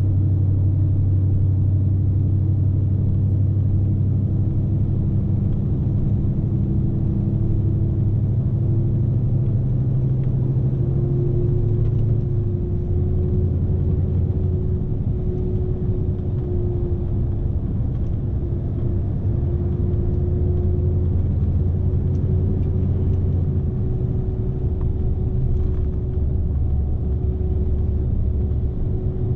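Scania S520's V8 diesel engine running under load, heard inside the truck cab: a steady low drone with road rumble. Its pitch shifts in steps about twelve seconds in and twice more later on.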